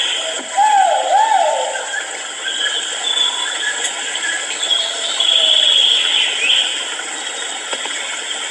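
Great argus pheasant (kuau) calling: a quick series of looping hoots that rise and fall, about half a second in and lasting a second or so, over a steady high-pitched buzz that swells and fades.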